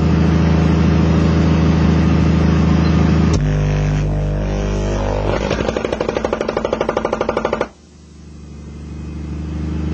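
TC Sounds 5200 prototype subwoofer playing a 50 Hz burp at full power, a loud, heavily distorted buzz. About three and a half seconds in the tone changes, and from about five seconds it becomes a rapid fluttering rattle before cutting off suddenly, as the aluminium cone is driven past its limits and deforms.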